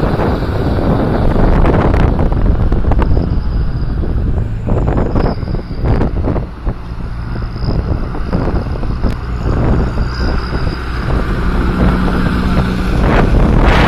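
Tractor engines running as tractors pass, with wind buffeting the microphone.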